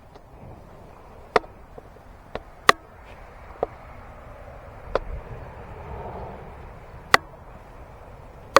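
A handful of sharp, irregularly spaced clicks or knocks over a faint steady background hiss.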